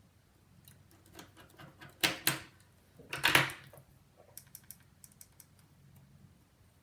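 Small hard clicks and knocks of tools and phone parts being handled on a work mat, with two louder clattering knocks about two and three seconds in, then a run of light ticks.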